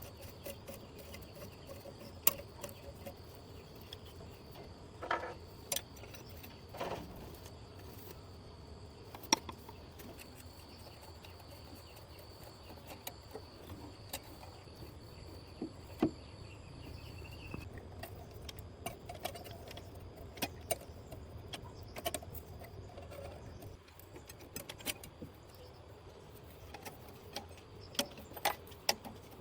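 Scattered light metallic clinks and knocks of tools and parts being handled, over a low steady hum and a thin high insect-like tone.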